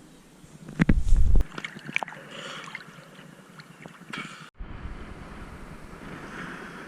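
Wind gusts buffeting the microphone in heavy low thumps, then, after a cut about four and a half seconds in, a steady rushing of wind and water.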